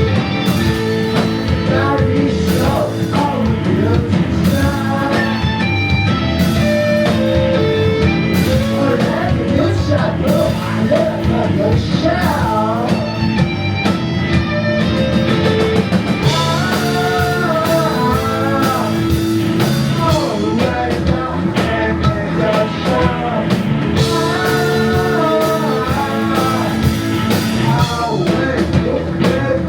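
Live psychedelic rock band playing at full volume: drums, bass and guitar under sustained, wavering lead lines from an electric violin or voice.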